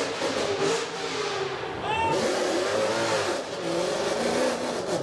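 Mercedes-AMG car engine revving, its pitch rising and falling several times, with a sharp climb about two seconds in.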